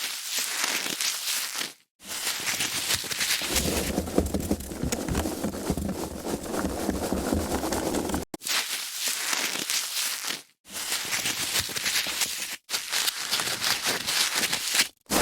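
Foam packaging handled and rubbed, a dense squeaky crackle of foam against foam, broken by several brief silent breaks. For a few seconds in the middle the rubbing is heavier and fuller.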